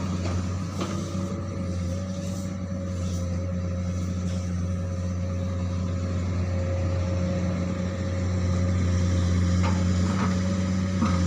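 Komatsu PC200 hydraulic excavator's diesel engine running steadily under working load, with a thin steady whine above the engine note and a few faint knocks. It gets somewhat louder about eight seconds in.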